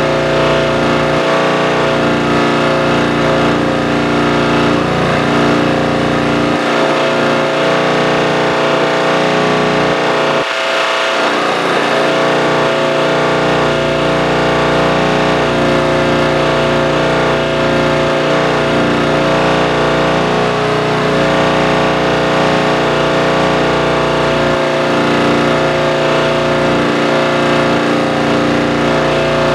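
Tractor engine running at a steady speed, its low rumble briefly dropping away about ten seconds in.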